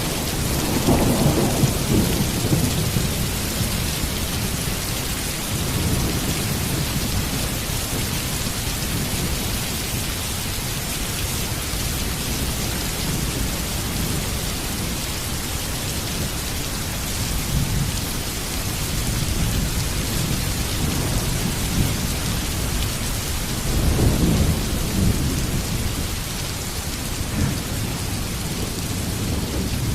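Heavy rain falling steadily, with low rolls of thunder rumbling at the start and again a little before the end.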